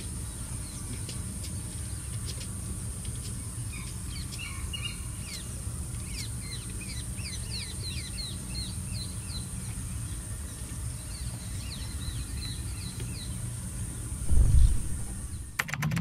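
Birds calling in quick series of short downward-sweeping chirps, over a steady high whine and a low outdoor rumble. A loud low thump comes near the end.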